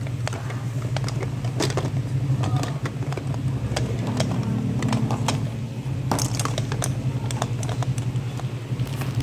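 Car engine running steadily, heard from inside the cabin, with many small clicks and rattles throughout.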